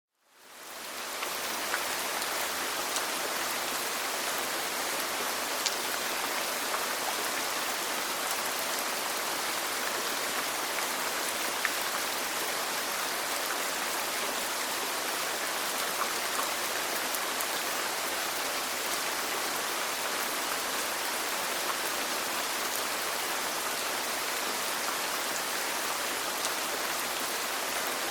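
Steady rain falling, an even hiss that fades in over the first second, with occasional single drops ticking out above it.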